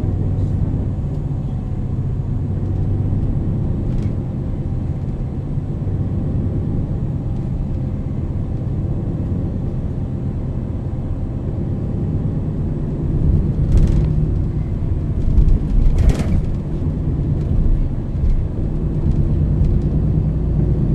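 MAN NL 323 city bus with a ZF EcoLife automatic gearbox running steadily under way, its diesel engine holding a steady low drone. From about 13 seconds in the low road rumble grows, with two sharp knocks about two seconds apart.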